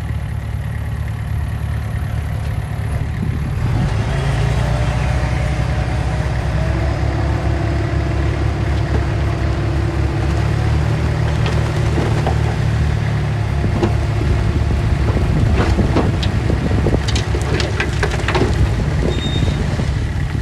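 Heavy earthmoving machine's diesel engine running steadily, growing louder about three and a half seconds in. Scattered sharp knocks and clanks come through in the second half.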